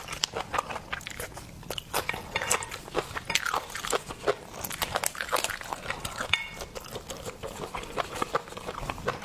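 Close-miked eating of seafood: steady crunching and wet chewing, with many quick irregular clicks, smacks and crackles.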